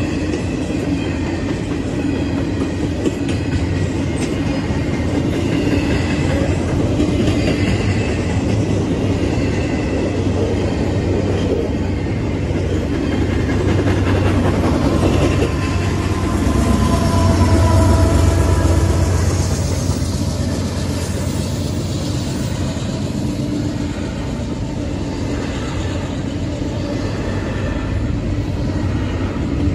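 Double-stack intermodal freight train rolling steadily past: a continuous heavy rumble and rattle of wheels on rail and swaying container cars, which swells louder about halfway through and then eases.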